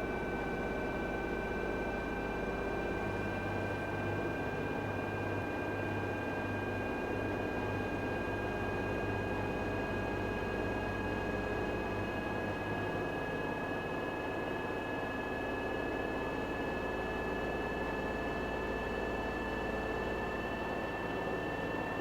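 Front-loading washing machine's drive motor running with a steady whine that slowly climbs in pitch as the drum gathers speed in a spin, over a low hum and rush of the turning drum.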